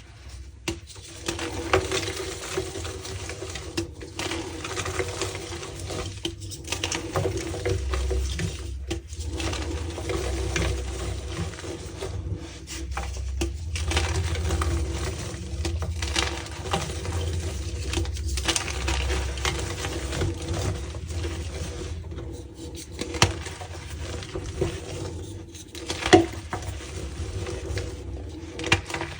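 Reformed gym chalk being crushed, a dense crunching crackle that stops briefly now and then.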